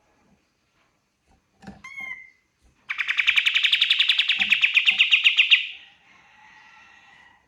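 Pied triller (kapas tembak) singing: a couple of short rising chirps, then a loud rapid trill of about ten notes a second lasting nearly three seconds, fading into a softer tail.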